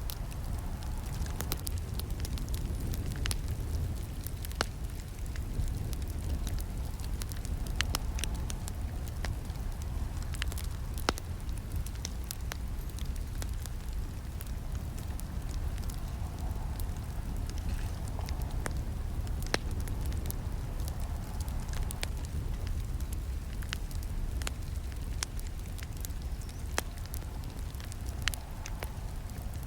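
Campfire burning: a steady low rumble of flames with frequent irregular crackles and pops, a few sharper snaps standing out, the loudest about eleven seconds in.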